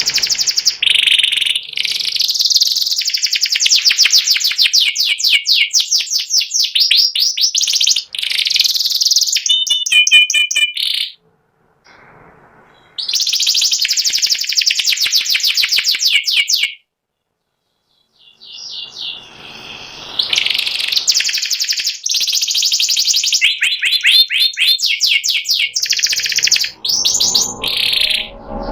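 White pied 'panda' canary singing long runs of rapid, evenly repeated high trills, broken by two short pauses, about 11 and 17 seconds in.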